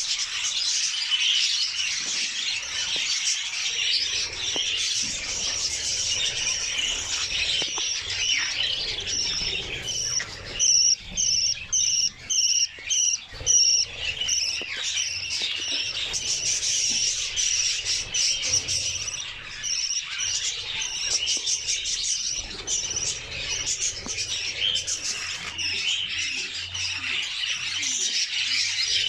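Budgerigars chattering and warbling continuously in high twitters. About a third of the way through, a short run of loud repeated chirps comes at roughly two a second.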